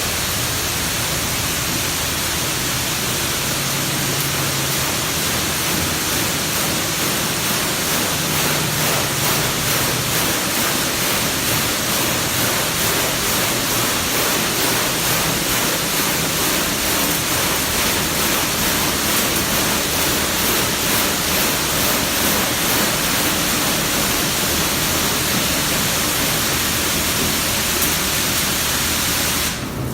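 AOK DynaWash touch-free automatic car wash spraying water over the car in a steady loud hiss, which cuts off suddenly just before the end.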